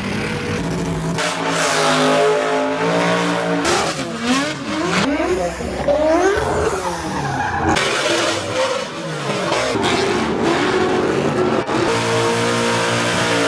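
Car engine revving up and down hard over squealing tires, as in a burnout.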